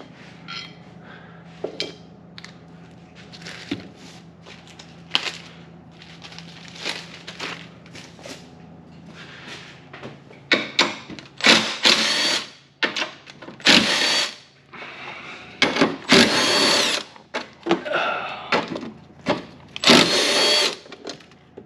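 Power tool running in several short bursts of one to two seconds, each with a high whine, in the second half, as it spins off strut brace nuts. Before that, a low steady hum with light clicks and taps.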